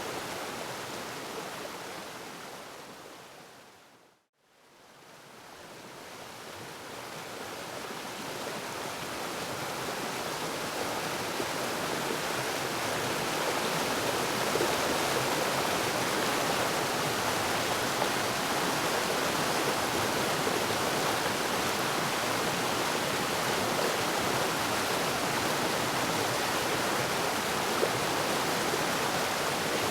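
Steady rushing of a waterfall, fading out to a moment of silence about four seconds in and slowly swelling back to full over the next ten seconds.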